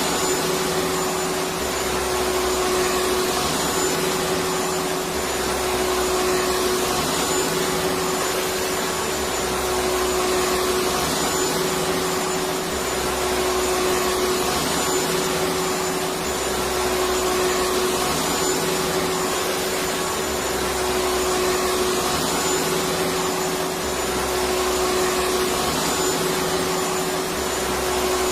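Electric vacuum cleaner running steadily: an even rushing noise with a constant motor tone, and a low throb that swells and fades every couple of seconds.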